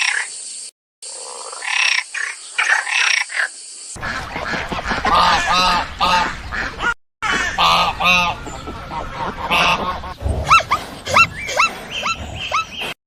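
Waterfowl calling, geese or ducks, in a run of short repeated honking calls spread over several spliced clips. The later calls are shorter and quicker.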